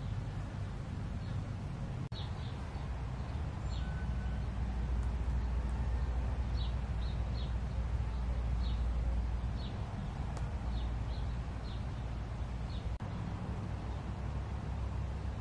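A small bird chirping, about a dozen short high chirps spaced irregularly, over a steady low rumble.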